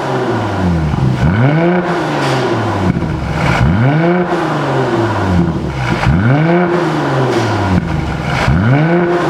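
Mercedes-AMG GLC43's twin-turbo V6 revved through an aftermarket dual valved exhaust: about four throttle blips, each rising in pitch and dropping back, roughly every two and a half seconds.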